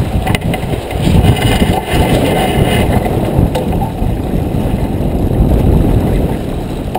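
Wind buffeting the microphone on a J24 sailboat under way, a loud, steady, rough rumble.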